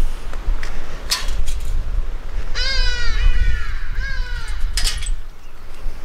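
Loud bird calls: a quick run of about four harsh calls, each sliding downward in pitch, with a short sharp sound about a second in and another near the end, over a low wind rumble on the microphone.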